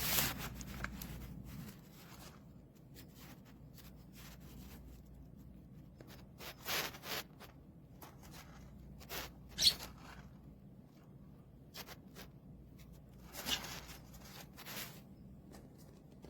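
Scattered short rustles and scrapes, a handful of separate bursts, over a low background hum that fades after the first couple of seconds.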